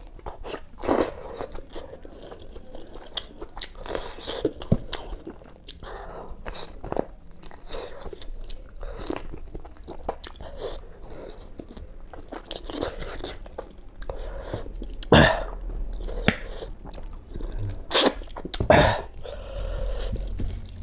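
Close-up chewing and biting as a man gnaws mutton off the bone and eats it with rice, making a run of irregular wet clicks and crunches, with several louder crunches in the last third.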